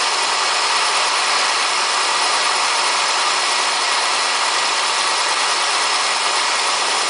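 Elliott Omnimill 00 small milling machine running steadily as its carbide-tipped cutter takes a light spring pass across the face of a railway-rail anvil.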